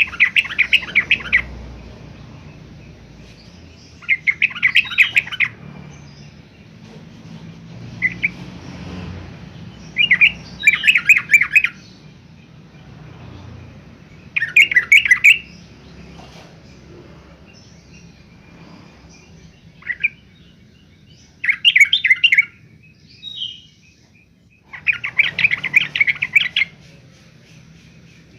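Yellow-vented bulbul (trucukan) singing: short bursts of rapid bubbly, chattering notes, each a second or two long, repeated every few seconds.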